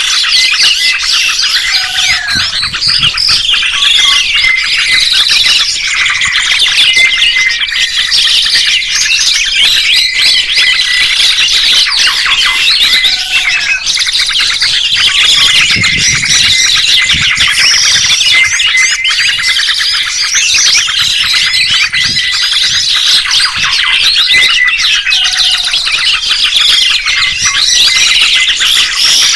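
A dense chorus of many songbirds chirping and trilling at once, with no pause. A short, faint lower call comes through three times.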